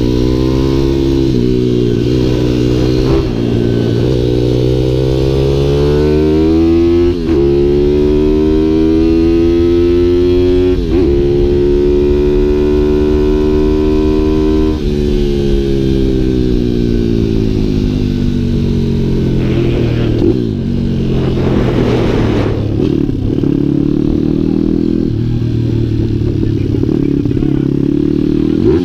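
Pit-bike supermoto engine revving hard under acceleration. Its pitch climbs and drops abruptly at gear changes about seven and eleven seconds in, then falls away as the bike slows midway and picks up again near the end.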